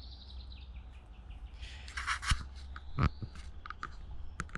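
A small songbird trills in a quick run of repeated high notes for about the first second. From about two seconds in, scattered clicks and rustles follow.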